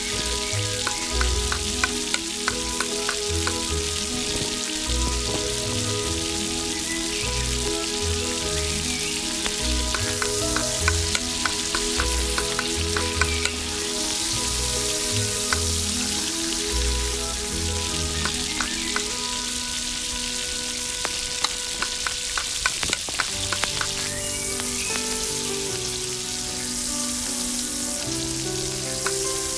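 Chopped tomatoes and onions sizzling in oil in a miniature steel pot, with a small metal spoon stirring and clicking against the pot now and then.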